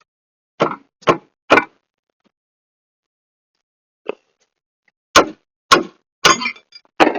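Hammer blows on metal: three strikes about half a second apart, a single lighter one, then four more near the end, the later ones ringing briefly.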